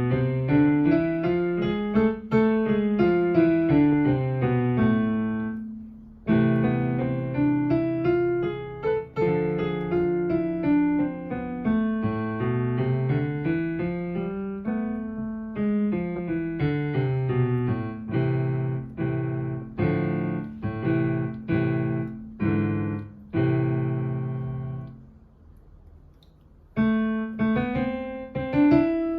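Piano playing A minor scale practice: stepwise runs up and down, in octaves, with short pauses between runs and a brief silence near the end before the playing resumes.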